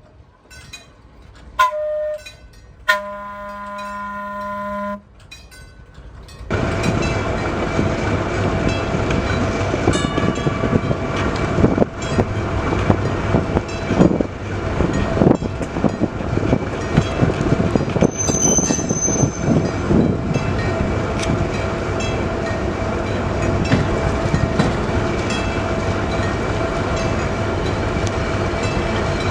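Train horn: a short blast, then a longer chord lasting about two seconds. About six seconds in, the train's rumble and rail noise start suddenly and run on steadily as it passes close by, with scattered clicks of wheels over the rail joints.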